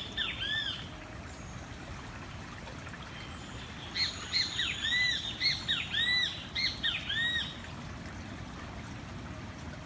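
Great kiskadee (bem-te-vi) calling: a short call near the start, then a run of about six arched notes from about four seconds in, over the steady rush of a flooded canal's fast current.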